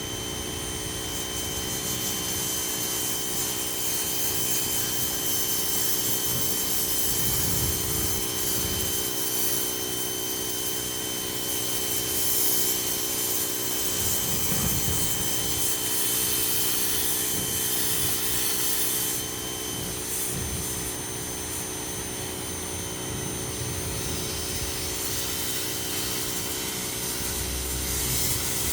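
Ryobi 2000 psi pressure washer running steadily with a motor whine under the hiss of its water jet. The spray hiss swells and eases as the jet moves, and one high whine drops out about two-thirds of the way through.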